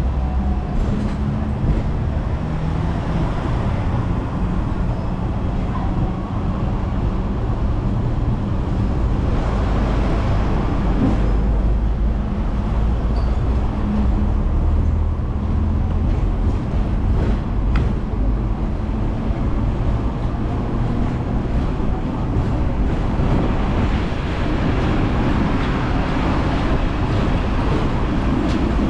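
Hong Kong double-decker electric tram running along the street: a low steady hum and rumble of motor and wheels on rails, with scattered light rattles and clicks.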